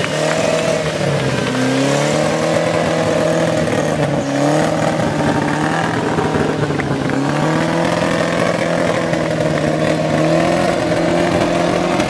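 A car's engine being revved repeatedly: its pitch climbs several times and is held at high revs in between.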